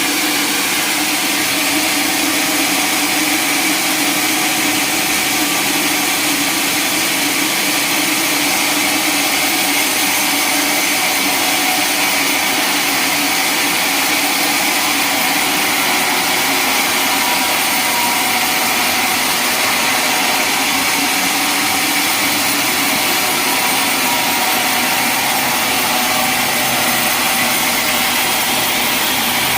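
Sawmill saw running steadily, a loud, even machine drone with no breaks.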